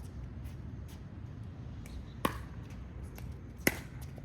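Pickleball paddles striking a plastic pickleball in a rally: two sharp, loud pocks about a second and a half apart, with fainter clicks between.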